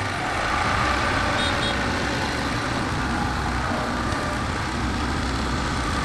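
Heavy construction machine's engine running steadily.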